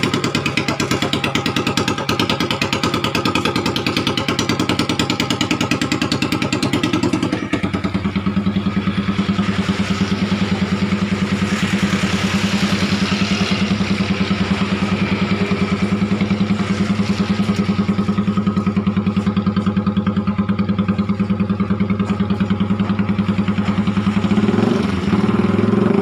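Engine idling steadily through a custom-made exhaust muffler under test. About seven seconds in the note shifts and settles at a steady idle, and near the end the engine begins to rev up.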